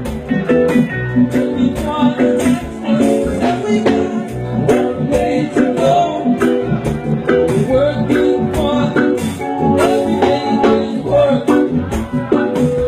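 Live reggae band playing, with guitar and percussion over a steady beat and some singing.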